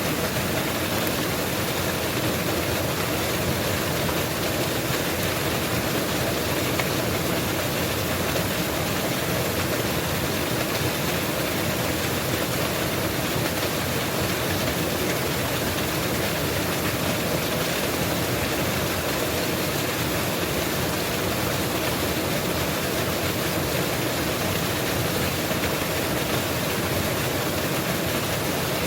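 Mountain waterfall: water falling and splashing in a steady, unbroken rush.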